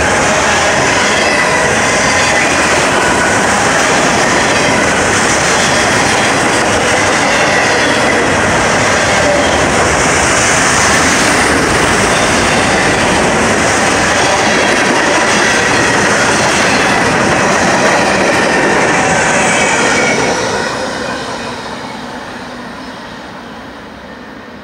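Freight train cars, autoracks and then tank cars, rolling past at speed: a loud, steady wheel-on-rail rumble and clatter. About twenty seconds in, the end of the train goes by and the sound fades away.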